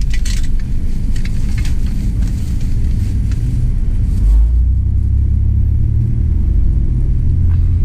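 Low, steady rumble of a running motor-vehicle engine, growing heavier about four seconds in, with small clicks and rattles in the first few seconds.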